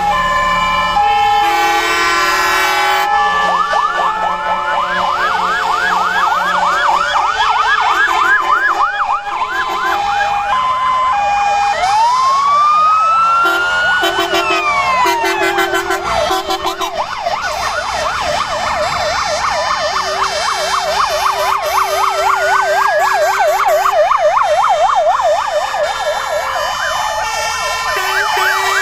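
Several fire engine sirens sounding at once, overlapping and out of step: fast warbling yelps, stepped two-note hi-lo tones, and a slow wail that rises and falls about halfway through.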